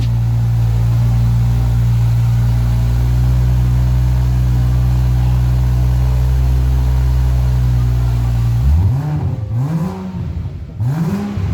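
BMW N55 turbocharged inline-six idling steadily through a catless turbo-back exhaust with Borla mufflers. About three-quarters of the way in it is blipped, three quick revs that each rise and fall in pitch.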